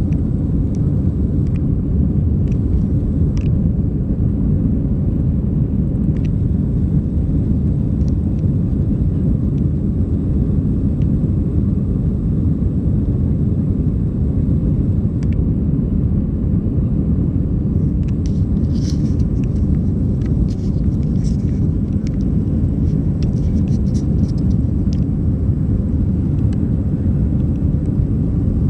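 Steady low rumble of jet engines and airflow heard inside an airliner cabin, holding an even level, with a few faint high clicks and rattles about two-thirds of the way through.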